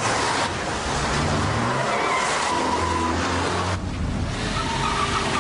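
Car engines running hard with tyres squealing on the road. The sound changes abruptly about two-thirds of the way through.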